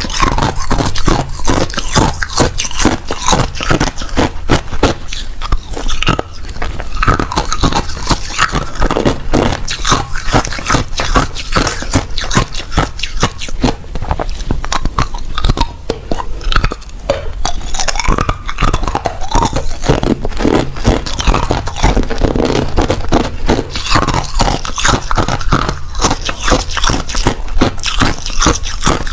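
Close-up crunching of hard crushed ice being bitten and chewed, a fast, continuous run of loud crunches.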